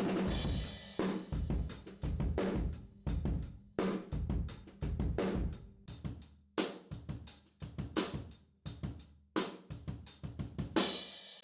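Acoustic drum kit played in a steady groove of kick, snare and hi-hat, with a bright cymbal crash at the start and another near the end.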